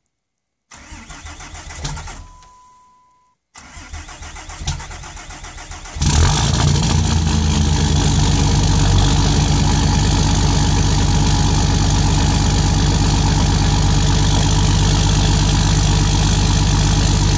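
5.9-litre Cummins inline-six turbodiesel cranking in an unassisted cold start at about −19, not plugged in. The starter cranks for about three seconds and fades, then cranks again, and the engine catches about six seconds in and settles into a steady idle through a straight-piped 4-inch dual exhaust.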